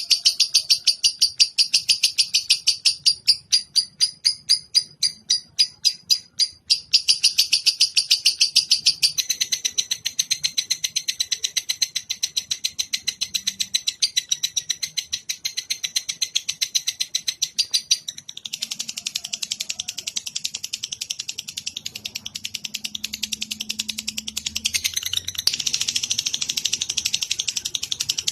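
Songbird masteran recording: a caged songbird chattering in a fast, unbroken string of high chirps. The pace and pattern change several times, with sparser notes a few seconds in and a denser, louder run near the end.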